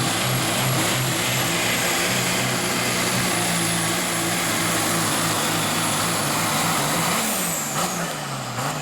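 Turbo-diesel pickup truck engine running hard at high revs under load, with a steady high turbo whistle over heavy exhaust noise. About seven seconds in it lets off, and the engine pitch and the whistle fall together.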